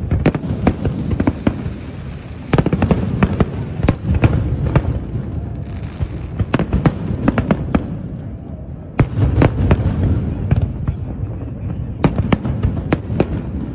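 Aerial fireworks bursting: many sharp bangs and crackles over a steady low rumble, coming in three flurries, the last near the end.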